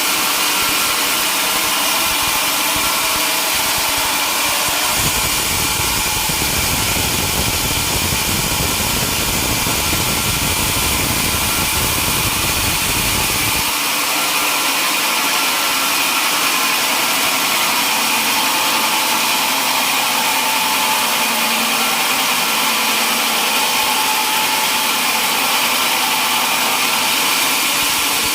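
Sawmill machinery running steadily. A deeper rumble comes in about five seconds in and stops abruptly around fourteen seconds.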